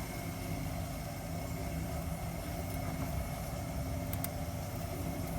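Toyota Corolla GLi's engine idling steadily, with a faint thin whine held over the running. The car is in for a noise complaint, and a rubbing sound was noted just before.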